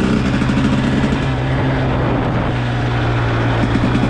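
Dirt bike engine running steadily at low revs while riding, with a constant low drone and a pulsing note just above it.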